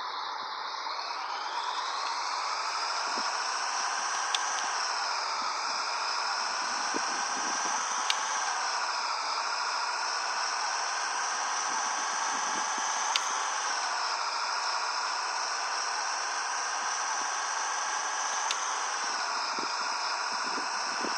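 Scania 113H 360 truck's turbocharged six-cylinder diesel running with a high turbo whistle. The whistle's pitch dips and recovers about every four to five seconds, with a faint click at each dip.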